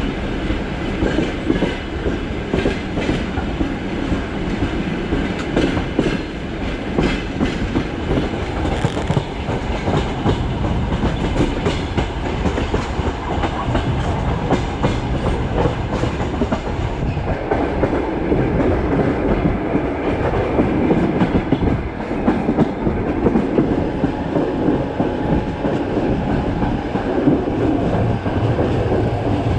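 Passenger train running along the track, heard from an open carriage window. A steady rumble of wheels on rails, with repeated clacks.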